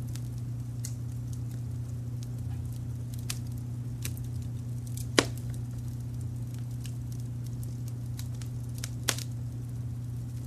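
Wood fire crackling, with scattered small pops and two sharper snaps, one about halfway through and one near the end, over a steady low rumble of added brown noise.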